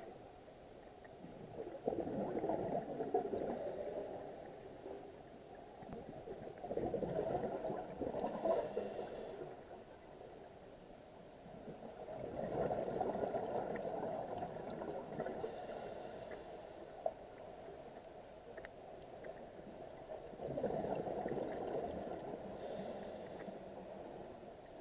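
Scuba diver's regulator heard underwater: slow breathing, with four swells of exhaled bubbles rumbling out, each paired with a short hiss of inhaled air through the regulator, about one breath every six seconds.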